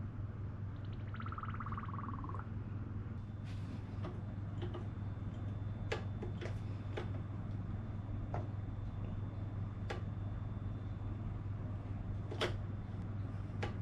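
Scattered light clicks and taps of hand tools and small parts being handled during motorcycle brake work, over a steady low hum. About a second in there is a brief rapid rattle that falls slightly in pitch.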